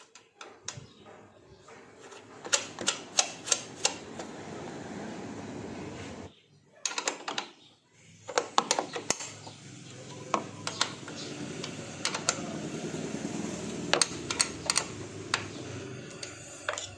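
Runs of sharp clicks and knocks, several a second, from hands and tools refitting hose fittings and plastic parts in an engine bay, over a steady low hum that breaks off briefly about six seconds in.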